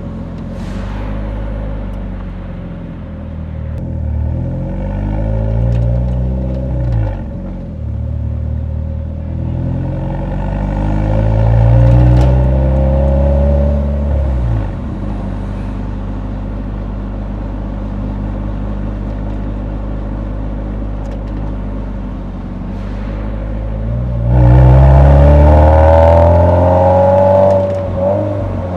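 Exhaust note of a Nissan 180SX's SR20 four-cylinder while driving. The revs climb and drop back at gear changes, hold a steady cruise through the middle, then rise loudly on a hard pull near the end.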